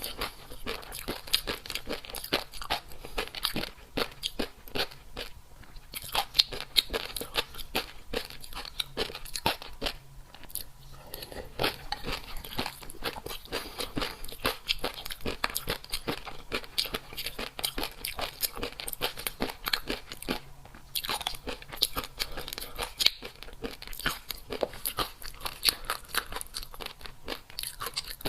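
A person crunching and chewing crisp food close to the microphone: dense, rapid crackly crunches, with brief lulls about five, ten and twenty-one seconds in.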